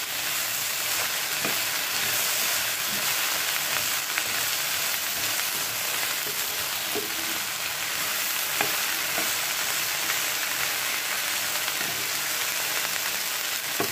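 Chopped okra sizzling in oil in a nonstick frying pan, stirred with a spatula, with a few brief scrapes and knocks of the spatula against the pan. The okra is being dry-fried until its sliminess cooks off.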